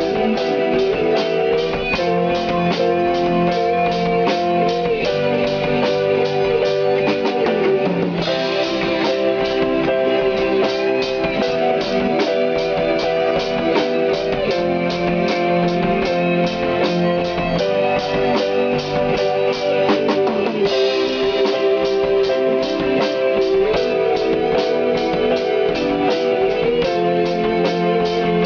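Band music without singing: guitars over a steady drum-kit beat, with sustained, wavering lead notes.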